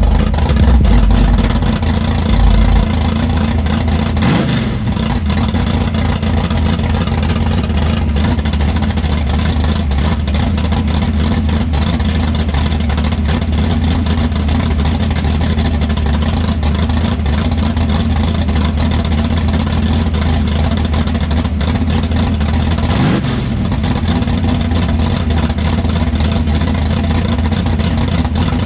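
A car engine running steadily at idle, loud and close. The pitch shifts briefly twice, as if the throttle were blipped.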